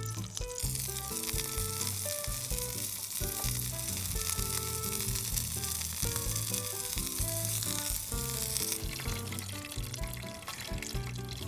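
Food frying: a steady sizzling hiss that starts about half a second in and stops abruptly about nine seconds in, over background music.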